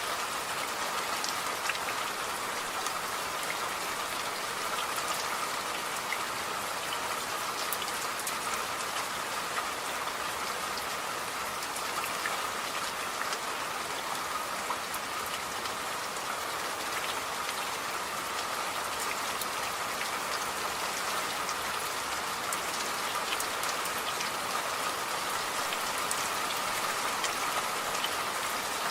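Steady rain falling, with many small drops pattering on a surface and a faint steady hiss throughout.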